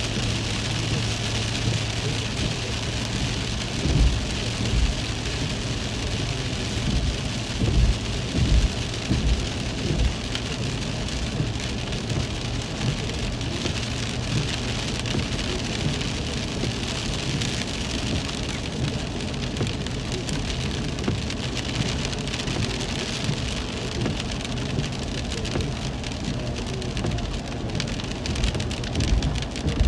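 Heavy rain falling steadily, a dense hiss, with a few short low thumps about 4 seconds in, around 8 to 10 seconds, and near the end.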